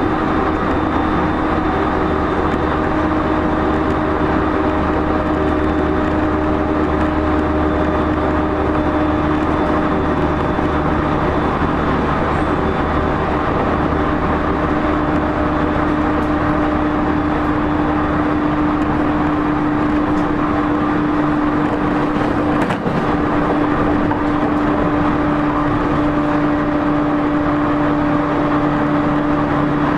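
Loud running sound of an E231-0 series commuter EMU heard from inside a motor car at speed: wheel and rail noise with the steady hum of the traction motors. A low rumble drops away about two-thirds of the way through, and there is one brief sharp click a few seconds later.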